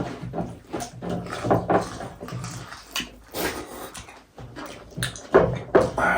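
Eating sounds: a person slurping and chewing goat-meat soup, in a run of short wet smacks and slurps.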